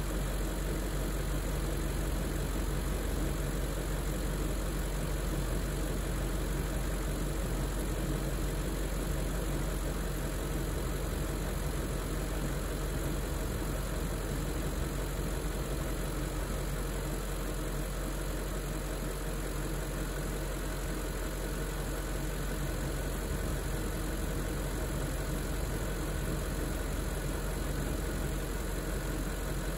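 BMW 740i (E38 facelift) 4.4-litre V8 idling steadily while it warms up after a cold start.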